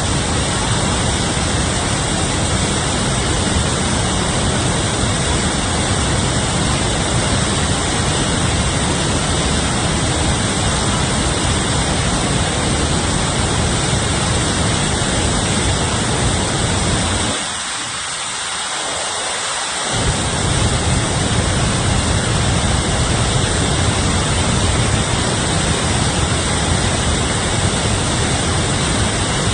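Steady, loud rushing of water with a deep low rumble under it. The rumble drops away for about two seconds past the middle, then returns.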